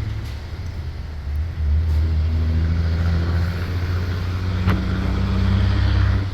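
A motor vehicle engine running steadily with a low, even hum that grows louder about a second and a half in. A single sharp click comes near the end.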